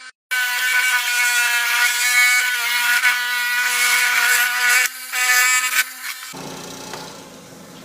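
Diamond-blade lapidary rock saw cutting through a septarian stone, giving a loud, steady, high whine with a short break near five seconds. About six seconds in the whine drops away, leaving a fainter, lower hum that slowly dies down.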